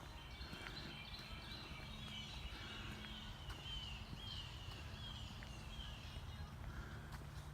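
Birds singing, one repeating a short falling note about every two thirds of a second, over a low steady hum and rumble.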